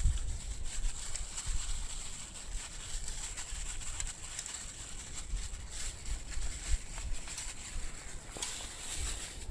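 Gusty wind rumbling on the microphone, with scattered light clicks and taps.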